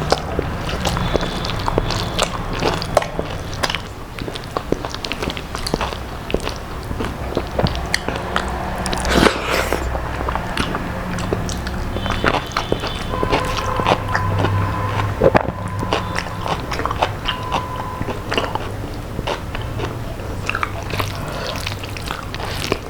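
Close-up eating sounds: biting and chewing crispy fried food with rice, many short sharp crunches and wet mouth clicks following one another without a break.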